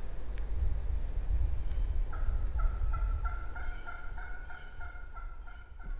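Wild turkey hen yelping: a steady series of about a dozen short yelps, three or four a second, starting about two seconds in, over a low rumble.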